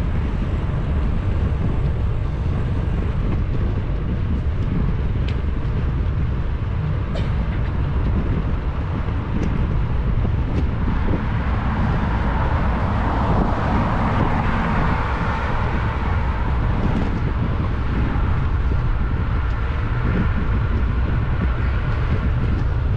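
Wind rushing on the action camera's microphone while riding a bicycle, over a steady road rumble. There are a few light clicks in the first half, and traffic noise swells up midway, as from a passing vehicle.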